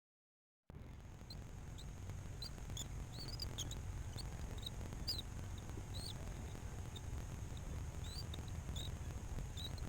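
Many short, high bird chirps, some gliding up or down, scattered over a steady low rumble; the sound starts abruptly less than a second in.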